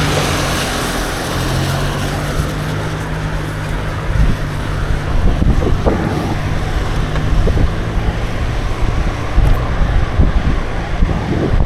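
Wind buffeting the microphone of a camera on a moving bicycle, gusting harder from about four seconds in, over a low steady hum that fades out after the first half.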